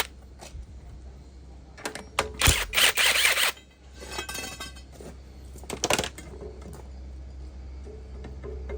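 Hand tools and metal engine parts clinking and clattering, with a couple of short scraping bursts, over a steady low hum.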